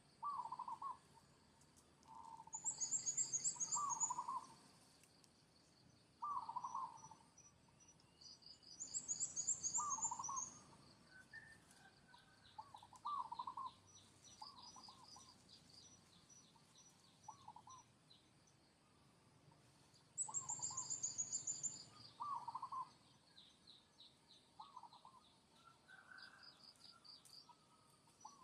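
Birds calling: short warbled notes repeated every second or two, with three bursts of high trilled chirping, over a faint insect buzz.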